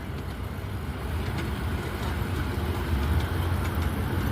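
Train running with a low, steady rumble that grows slightly louder, with faint clicks over it.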